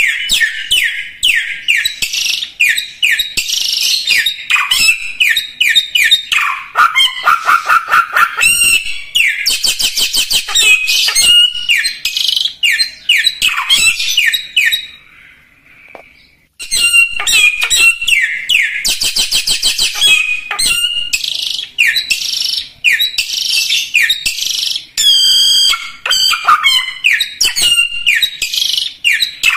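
A samyong songbird singing in full, continuous song: rapid, varied high chirps and trills, broken by a pause of about a second and a half just past the middle.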